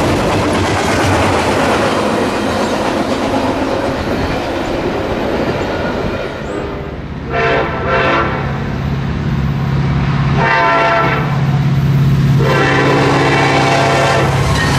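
Double-stack container train rolling past close by, its wheels clattering over the rail joints. About seven seconds in, an approaching diesel freight locomotive sounds its horn in several blasts, the last one held long, over the steady low drone of its engine.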